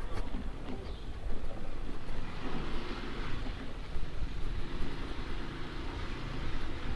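Wind noise and a scooter engine running, picked up by a microphone inside a motorcycle helmet while riding; the wind buffets the mic unevenly.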